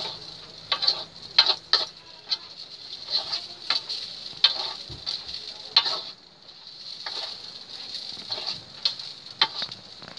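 Fried rice sizzling in a wok over a gas flame while a spatula stirs it, with irregular clacks and scrapes of the spatula against the pan.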